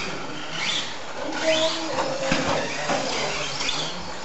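Radio-controlled stadium trucks racing on a dirt track: their motors whine up in pitch a couple of times as they accelerate, over a steady hiss of tyres and dirt.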